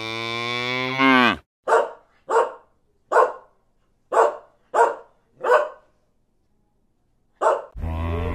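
A cow gives one long moo that ends about a second and a half in. A small dog then barks seven times, in short single barks spaced about half a second to a second apart. A deep rumbling sound starts just before the end.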